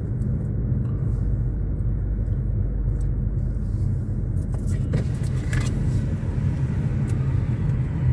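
Steady low rumble of a car's engine and tyres, heard from inside the cabin while driving. A few light clicks come about five seconds in.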